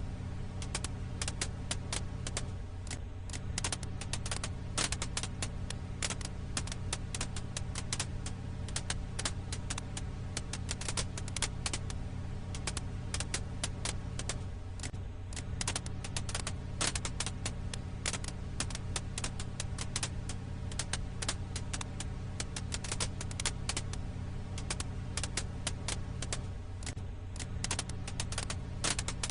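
Campfire crackle: dense, irregular pops and snaps of burning firewood over a steady low rumble.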